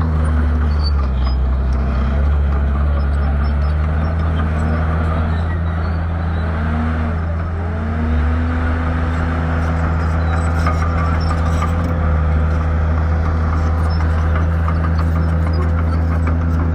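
Shantui bulldozer's diesel engine running loudly. Its pitch dips and recovers several times in the first half, then holds steady.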